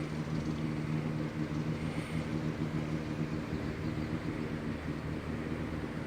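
Houseboat's engine running steadily while the boat cruises, a constant low drone.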